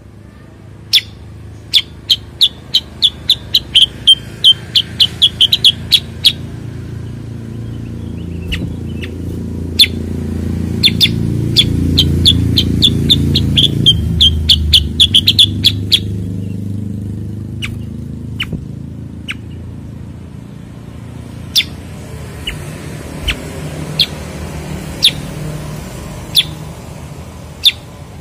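Cucak kurincang singing: two rapid runs of short, sharp, high notes, then scattered single notes. Underneath is a low rumble that swells in the middle and fades.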